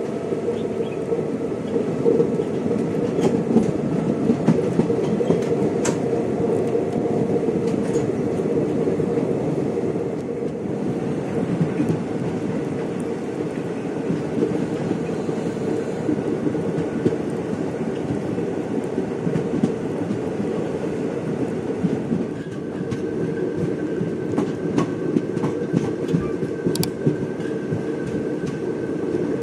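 Passenger train running on the rails: a steady rumble with the wheels clattering over the track. A faint thin whine joins about two-thirds of the way in.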